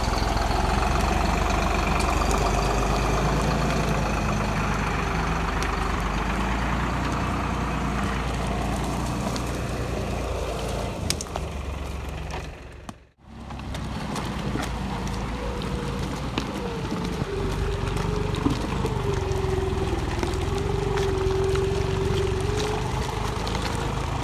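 Deutz-Fahr 4055 tractor's diesel engine running steadily as it drives. The sound drops out for a moment about halfway through, and a wavering whine rides over the engine in the second half.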